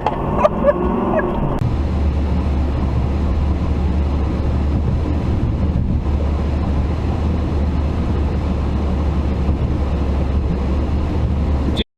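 Steady, even road and wind noise of a moving vehicle, low and constant, as picked up by a dash cam. It cuts off abruptly near the end.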